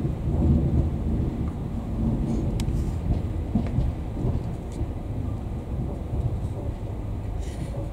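Steady low rumble of a Virgin Trains Class 390 Pendolino electric train in motion, heard from inside the carriage, with a few faint clicks.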